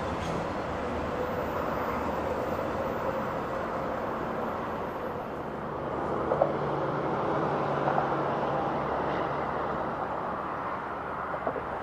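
BNSF freight train running by with a steady rumble and a low engine hum, and a few short sharp clicks about halfway through and near the end.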